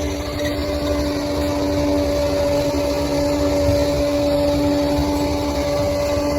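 Bulldozer's diesel engine running steadily, with a steady whine above the low rumble.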